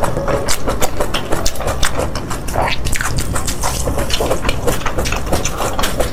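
Close-miked eating sounds: wet chewing of noodles and soup, a dense run of rapid smacking clicks with a few short sucking slurps about three seconds in.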